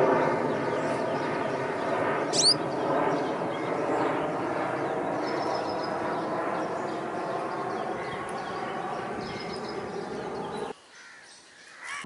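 Birds calling: a dense, steady background chatter, with one sharp, high, falling call about two seconds in. The background drops away suddenly near the end.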